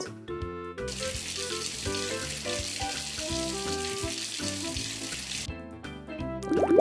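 Water running in a steady hiss, as hot water is added to a doll's bath, stopping abruptly about five and a half seconds in. Light background music with short notes plays throughout.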